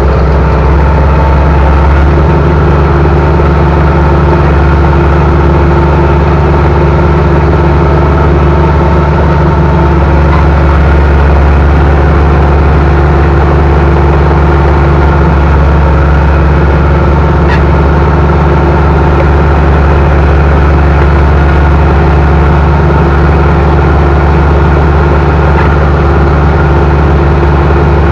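Bulldozer's diesel engine running loudly and steadily.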